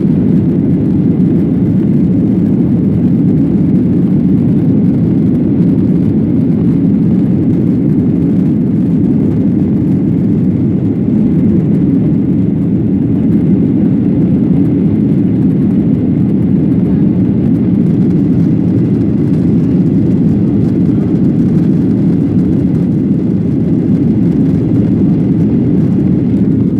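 Steady low engine and airflow noise inside a jet airliner's passenger cabin after takeoff, even and unchanging throughout.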